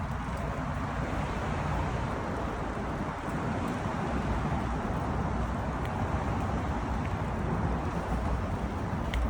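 Steady rushing wind on the microphone of a moving bicycle, mixed with road and traffic noise.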